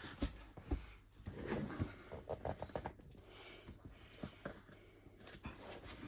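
Cardboard box being worked out of a tight cardboard sleeve: irregular scraping, rubbing and knocking of card as it is tugged and handled.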